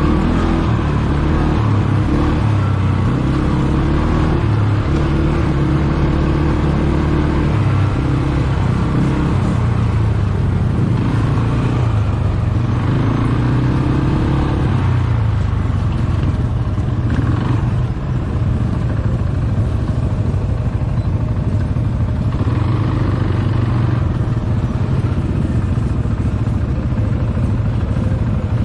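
ATV engine running while riding, its pitch rising and falling as the throttle changes.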